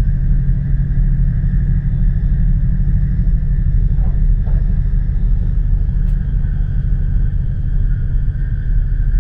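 Steady low rumble of an E4 series Max Shinkansen running at speed, heard from inside the lower-deck cabin, with a faint steady hum above it.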